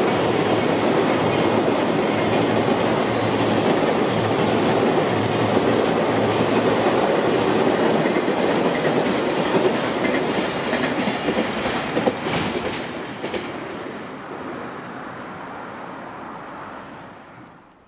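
Container freight train running across a steel girder railway bridge: a steady clattering rumble of wagon wheels that dies away over the last several seconds as the end of the train passes, with a few sharp clicks about twelve seconds in.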